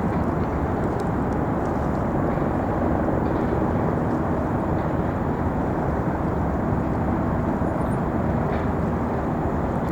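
Steady low rumble of outdoor background noise with a faint engine-like hum, unchanging throughout.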